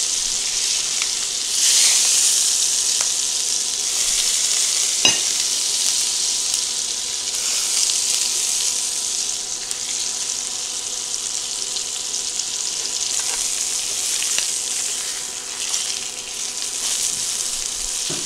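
Pork chops sizzling in hot oil and butter in a cast iron skillet, a steady frying hiss that swells louder about two seconds in. A single sharp click about five seconds in.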